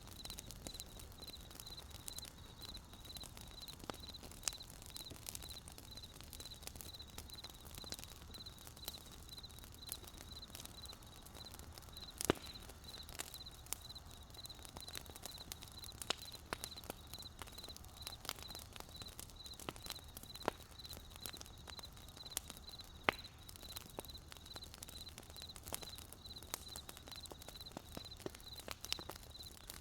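Wood campfire crackling, with irregular sharp pops and snaps. Under it a cricket chirps in a steady run of evenly spaced high chirps.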